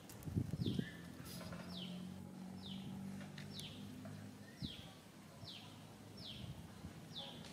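A bird calling a short falling chirp over and over, about once a second. A low rumble about half a second in is the loudest sound, and a low steady hum runs underneath.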